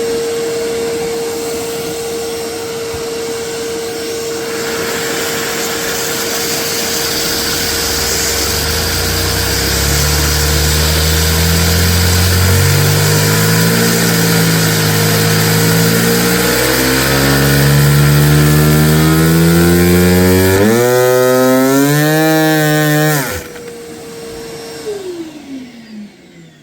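A vacuum cleaner's motor whines steadily while the LEGO vacuum engine it drives spins up, its hum rising steadily in pitch and wobbling near the top. About 23 seconds in the engine's sound cuts off abruptly, and a couple of seconds later the vacuum cleaner winds down.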